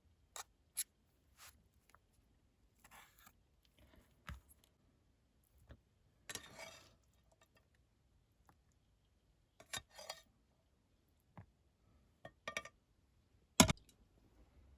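Scattered small clicks, taps and brief rustles of objects being handled at close range, with one sharp, louder click near the end.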